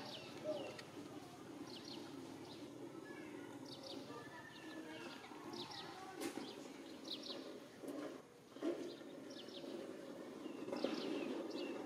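A bird calling over and over: groups of two or three short, high, falling chirps about once a second, over a steady low background hum.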